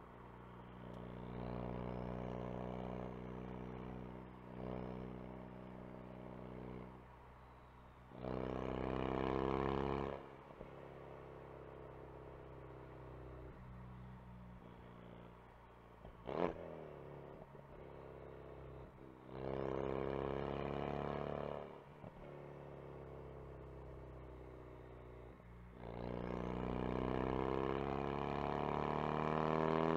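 Ford Focus RS engine and exhaust accelerating in three louder pulls, the note rising as it revs and easing back between them. A single sharp crack comes about halfway through.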